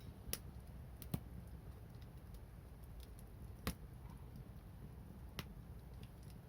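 Wood bonfire crackling: a handful of sharp, irregular pops over a low steady rumble.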